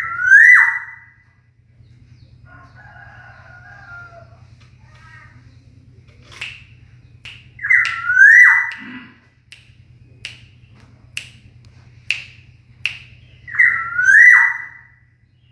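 Black-naped oriole calling: three loud whistled calls about six seconds apart, each rising and then dropping off sharply, with short sharp chirps between the second and third.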